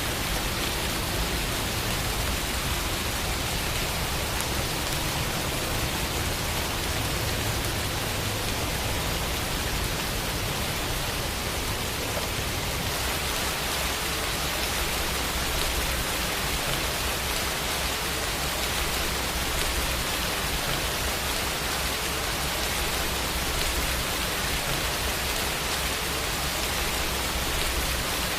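Steady rainfall, an even hiss with no breaks or distinct drops.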